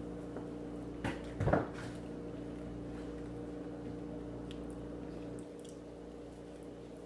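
Two brief soft squishes about a second and a half in, from bananas being eaten, over a steady low electrical hum that drops slightly near the end.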